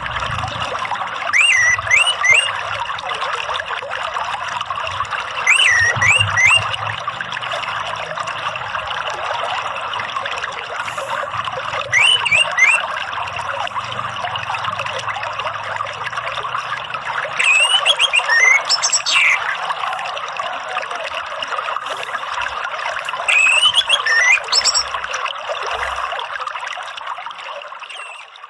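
Running water trickling steadily, with an orange-headed thrush singing short groups of rising whistled notes about every five or six seconds. It is a therapy and lure track meant to bring a caged thrush into full, open song. The sound fades out near the end.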